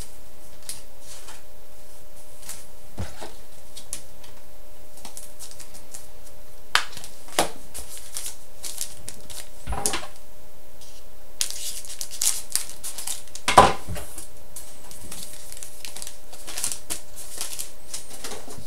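Trading cards and their packaging being handled at close range: scattered short clicks, slides and crinkly rustles of card stock and wrappers, the loudest rustle about two-thirds of the way through. A faint steady hum runs underneath.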